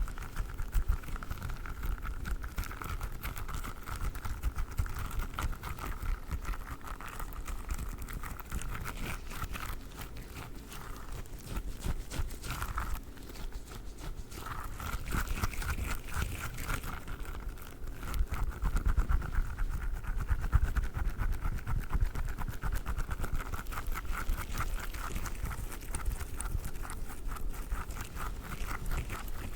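Squishy durian stress toy being squeezed and kneaded close to the microphone, giving a steady run of fine, crackly squishing sounds.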